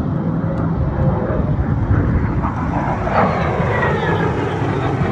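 Military jet aircraft flying a display, its engine noise a loud, steady rush with a faint falling whine a little past halfway.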